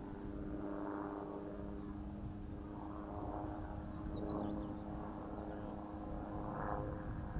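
Electric motor and propeller of a Spacewalker 2 RC model airplane (6S, 2.5 kW electric drive) in flight, giving a steady hum over a low rumble of wind on the microphone.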